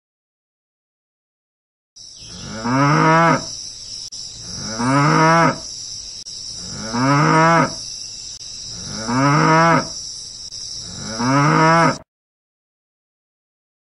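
Cattle mooing: five moos, each just under a second long and about two seconds apart, starting about two seconds in. A steady high-pitched hiss runs underneath the calls.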